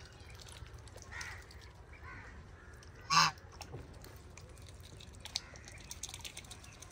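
A bird call: one loud, short call about three seconds in, with a couple of fainter calls before it, over low steady background noise.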